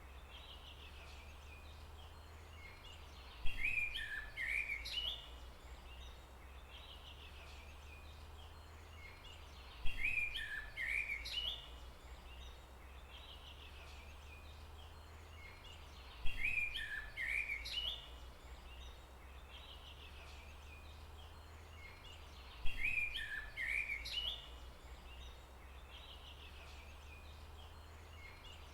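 A songbird's short phrase of quick, high chirps, repeating about every six and a half seconds with the same shape each time, four times, over a steady low rumble.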